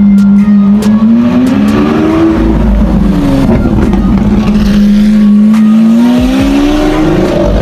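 High-performance sports car engine revving: its note holds steady, climbs about two seconds in, falls back, then climbs again near the end.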